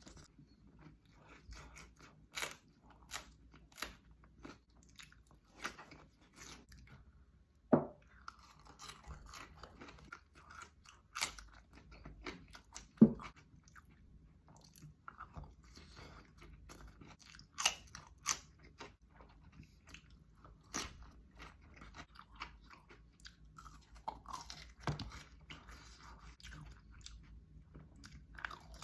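Close-miked eating of Thai red sausage, mukbang style: wet chewing and biting with many sharp, irregular crunchy clicks, the loudest about 8 and 13 seconds in.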